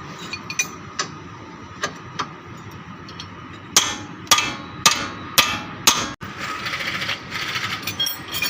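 Hammer blows, most likely on the suspension parts during a lower ball-joint job: a few light taps, then five hard strikes about half a second apart, each ringing briefly. A couple of seconds of steady noise follow the strikes.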